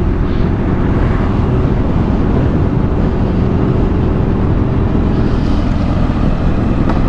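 Kawasaki H2's supercharged inline-four engine running at a fairly steady speed while riding, under a heavy rush of wind noise.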